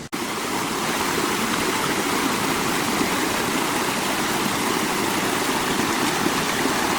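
Steady rush of running water, starting suddenly after a brief dropout at the very beginning.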